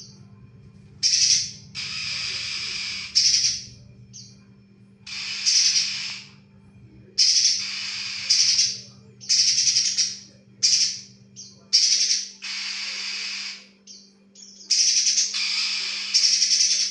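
Spiderhunter (pijantung) singing hard: about a dozen loud, rapid chattering phrases, each up to a second or so long, separated by short pauses, over a faint steady hum.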